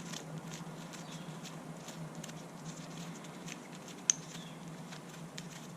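Faint scattered clicks and light scraping of metal parts as a T-bolt is hand-tightened on a fuel line fitting tool, with one sharper click about four seconds in, over a steady low hum.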